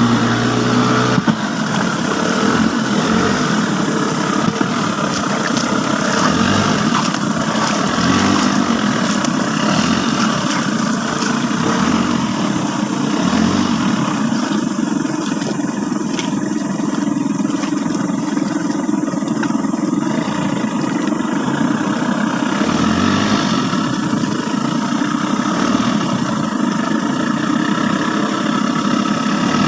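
Engine running steadily and loudly at an even speed.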